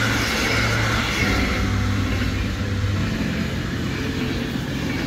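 Passenger coaches of a passing train rolling by close at hand: a steady rushing of wheels on rail, loudest in the first two seconds and easing after.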